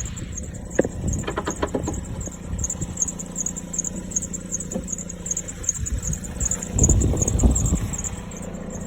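2007 Jeep Compass's 2.4-litre four-cylinder idling with a steady hum, its exhaust running a little loud through a hole in the muffler. A few light clicks come about a second in, and louder handling noise near the end.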